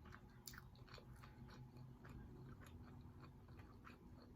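Faint chewing of food, with many small, irregular wet mouth clicks and smacks.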